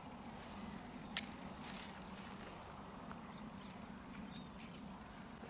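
Faint birdsong: a small bird's rapid run of repeated high chirps in the first second, with scattered chirps after. There is one sharp click about a second in.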